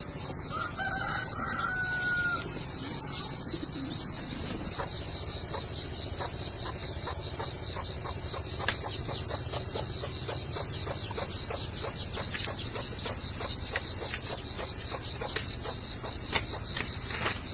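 A rooster crows once, from about half a second in, in a single held call. After it comes a long run of faint, irregular clicks and ticks.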